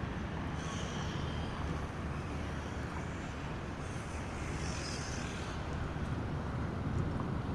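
Steady low rumble under an even faint hiss of rain, with a couple of faint brief high-pitched sounds about a second in and again around four to five seconds in.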